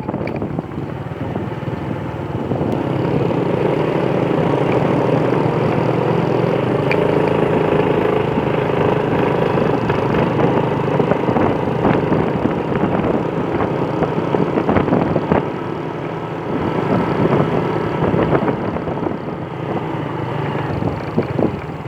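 A vehicle engine running steadily on the move, with road and wind noise and a few sharp knocks.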